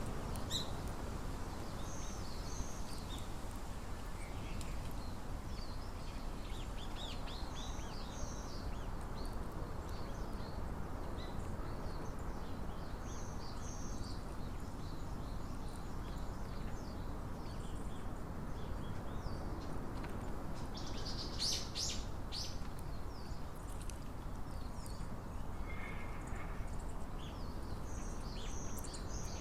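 Small birds chirping and calling in short, high notes throughout, with a louder flurry of chirps about two-thirds of the way in, over a steady low outdoor rumble.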